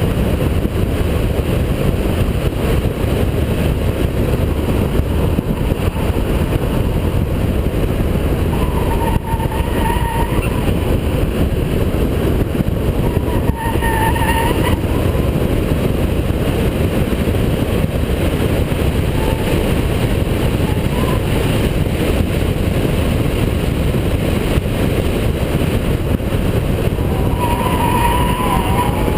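Holden VP Commodore's 3.8-litre V6 driven hard, with its engine and road noise running loud and steady. Three brief high-pitched squeals come through, about ten, fourteen and twenty-eight seconds in.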